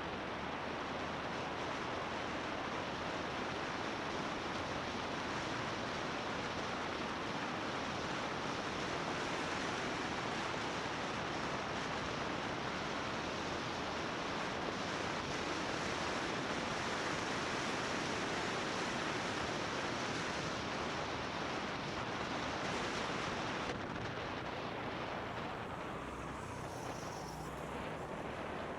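Wind rushing over the microphone of a camera riding on a moving motorbike, a steady hiss with road noise beneath it. The hiss eases and grows duller about five seconds before the end.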